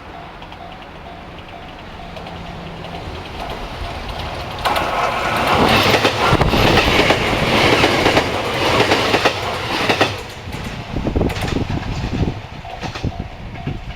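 A train passing on the line: it approaches and grows louder, runs past loudly for about five seconds, then a string of rhythmic wheel clacks over the rail joints follows before the sound dies away.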